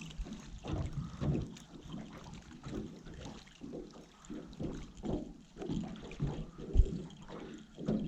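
Gusty wind buffeting the microphone, with water and boat noises rising and falling unevenly, and a sharp low thump about seven seconds in.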